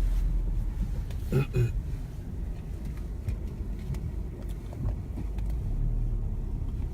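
Low, steady rumble of a car moving slowly through a parking lot, with a brief short sound about a second and a half in.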